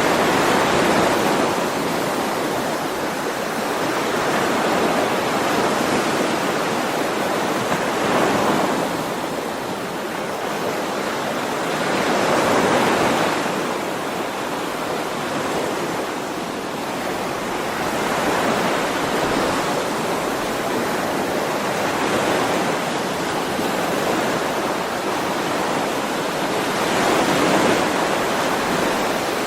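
Ocean waves breaking and washing on the shore, a steady rush of surf that swells and ebbs every few seconds.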